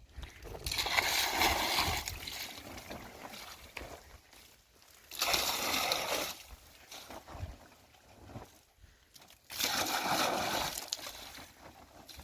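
Water sloshing and splashing as it is poured or tipped out, in three bursts of about a second and a half each, roughly four seconds apart.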